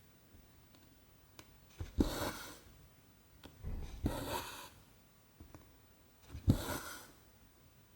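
Needle and cotton thread drawn through 14-count cross-stitch canvas, three stitches: each is a short tick as the needle passes, then a rasping pull of thread lasting under a second. Fainter ticks fall in between.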